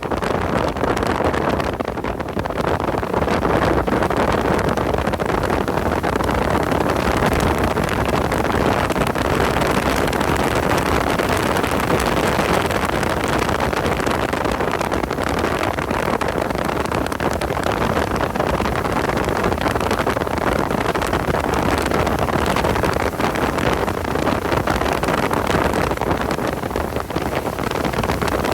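A car running at speed: steady engine and wind noise with no clear rise or fall in pitch.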